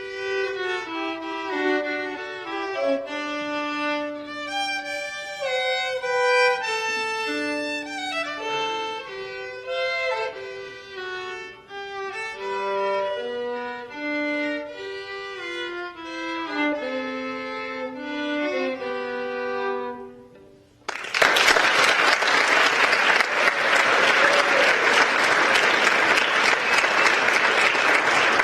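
Solo violin playing a quick melodic line of single notes, stopping about twenty seconds in; an audience then applauds.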